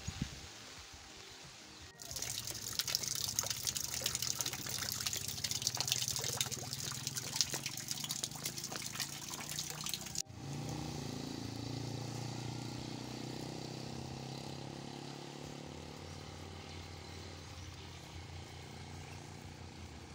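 Rain falling. For several seconds there is a dense, close patter of drops, then the sound cuts suddenly to a steadier, softer wash of rain with a low hum underneath.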